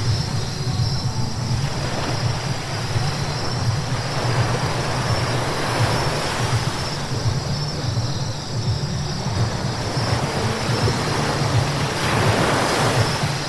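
Car driving on a wet road: a steady low rumble of engine and road noise with tyre hiss from the wet surface, swelling about five seconds in and again near the end.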